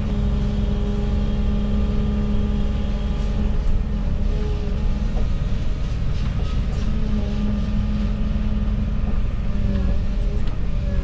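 Volvo EW160E wheeled excavator's diesel engine running steadily at a constant pitch, with a few faint clicks and knocks partway through and near the end.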